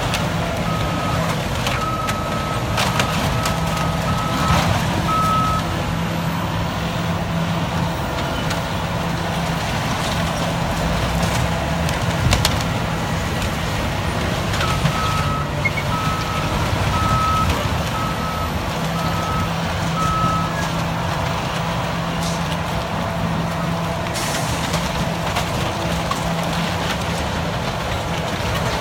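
Caterpillar D9 bulldozer's diesel engine running steadily while its reversing alarm beeps a little more than once a second, in two spells of about five seconds each, with scattered short knocks.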